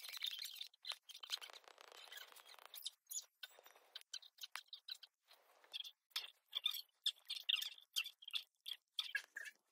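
Faint bird chirps, coming in short broken bursts.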